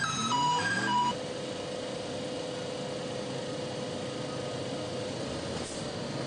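An electric train's musical melody horn playing a stepping run of clear notes, which ends about a second in. Then the train is running steadily, a steady hum over rolling noise.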